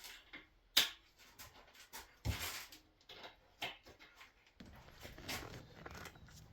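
Hands working on a motorcycle's parts and tools: scattered clicks and knocks, a sharp knock about a second in and a short scrape about two seconds in.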